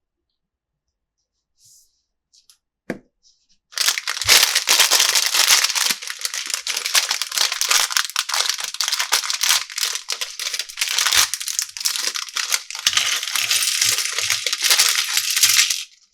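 Plastic toy packaging crinkling and tearing as it is handled, a dense crackle that starts about four seconds in and keeps on for about twelve seconds, after a few soft clicks.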